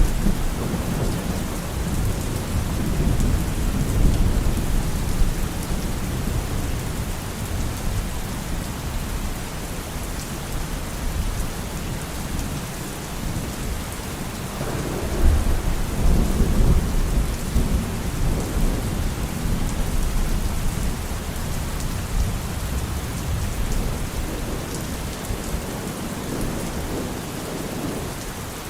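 Steady rain with rolling thunder: a low rumble at the start dies away, then another roll of thunder comes in about halfway through and fades slowly.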